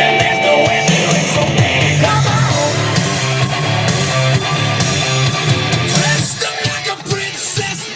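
Loud music with singing, played through a truck's aftermarket bass system, with a heavy bass line.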